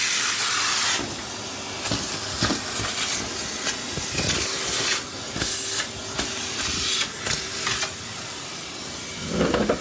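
Henry vacuum cleaner running, a steady motor hum under a loud rushing suction hiss, with a few short knocks and clatters from the hose or nozzle.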